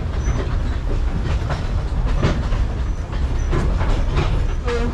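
Narrow-gauge sugar-cane railway train running along the track, heard from aboard: a steady low rumble with irregular clacks and knocks from the wheels and cars.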